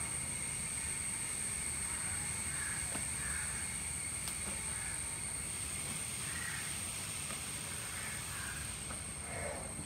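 Birds calling outdoors: a run of short calls repeated about once a second, over a steady high-pitched whine.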